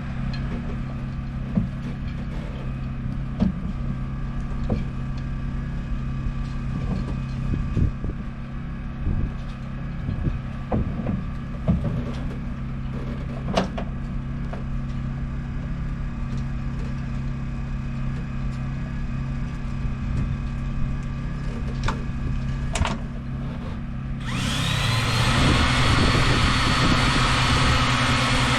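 A steady low hum with scattered knocks and clatter of handling. Near the end, a louder, steady motor noise starts suddenly: the electric oil-extraction pump switching on to draw the engine oil out.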